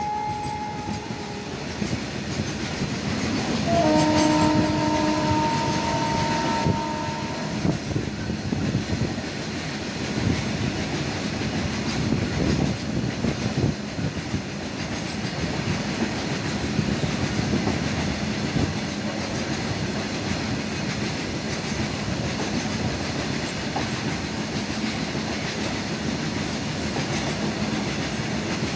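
A long freight train of coal-loaded open wagons rolling past, with a steady clatter of wheels over the rail joints. A locomotive horn chord fades out about a second in, and a second, different-pitched horn chord sounds from about four to seven seconds in.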